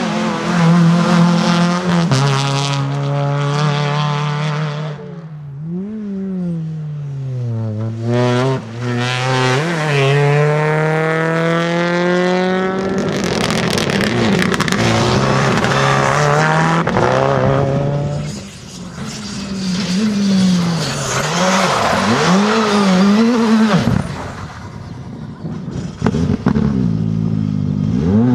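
Rally cars driven hard on a stage, engines revving high and dropping back repeatedly through gear changes and lifts. In a few stretches the engine is mixed with heavy tyre and road noise.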